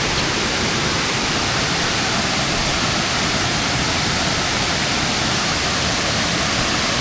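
Steady rush of a cascading waterfall, an even wash of water noise that does not change.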